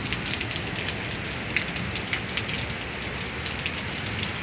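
Thunderstorm rain falling steadily, with many sharp taps of drops hitting close by.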